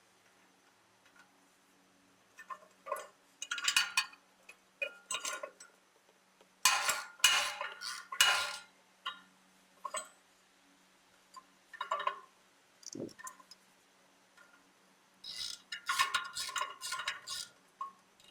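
Metal hand tools clinking and clattering against the exhaust in several short bursts with quiet gaps between, as the header pipe bolts are tightened with a wrench.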